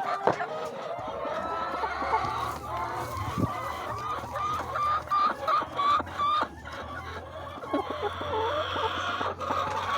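A flock of domestic chickens clucking and calling, many birds at once, with a run of quick repeated clucks in the middle.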